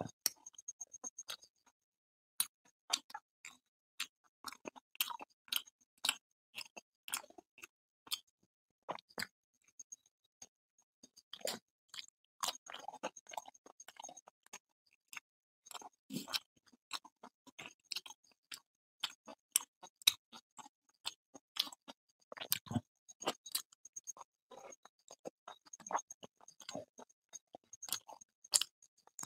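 Close-miked chewing and mouth sounds of a person eating luchi with chicken curry by hand: irregular wet smacks and clicks in clusters, with short pauses between them.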